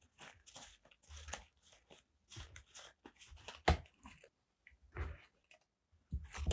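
Paper and stickers being handled on a desk: a run of short crinkling rustles broken by a few sharper taps, the loudest about three and a half seconds in.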